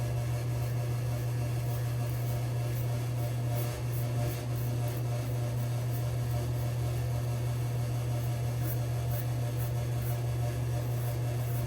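A steady low hum throughout, with faint, short scraping strokes now and then from a double-edge safety razor cutting stubble.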